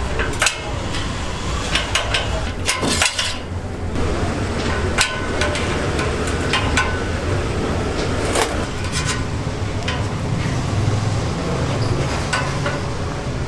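Kitchen clatter: metal utensils and dishes knocking and clinking at irregular moments over a steady low hum.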